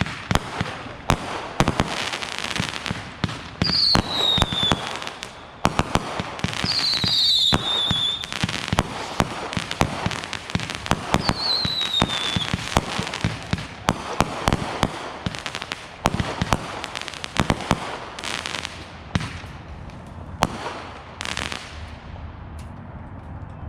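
Consumer fireworks going off in a dense, irregular string of sharp bangs and crackles. Three short falling whistles come in among them.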